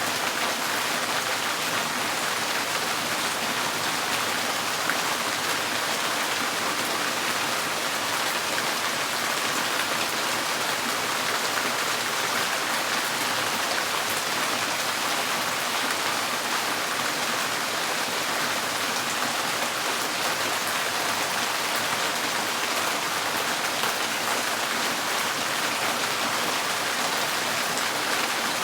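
Steady rain drumming on a tin porch roof, an even hiss of many drops with fine individual patters.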